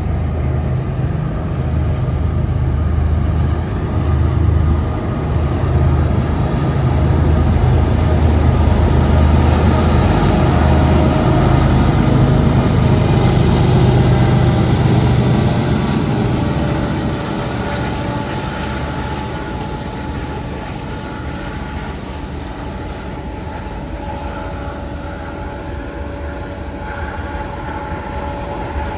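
Train passing close by: a heavy low rumble, loudest in the first half and easing after about sixteen seconds, then rolling cars with thin squealing wheel tones.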